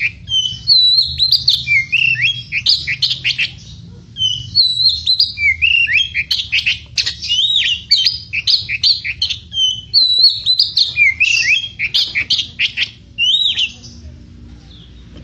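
Oriental magpie-robin (kacer) singing a fast, varied song of swooping whistles and scratchy chattering notes, with two brief pauses. The song stops shortly before the end.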